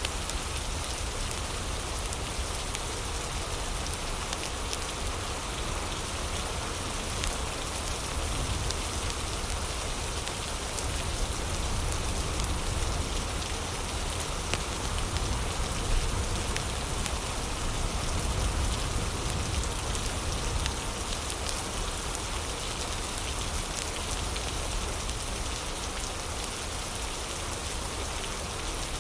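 Heavy rain falling steadily: a dense, even hiss with a low rumble underneath. Faint scattered crackles from a fireplace run through it.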